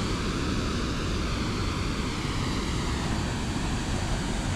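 Waterfall pouring into a pool: a steady, dense rush of water.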